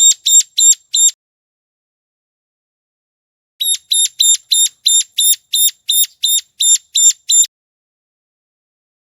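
Ciblek gunung, a small prinia, calling in quick series of sharp, high, repeated notes, about three a second: a burst of four at the start, then after a pause of a couple of seconds a longer run of about twelve.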